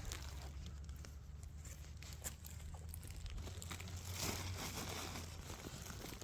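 Rustling and crackling of dry leaves and twigs, with scattered small snaps and a louder rustle about four seconds in.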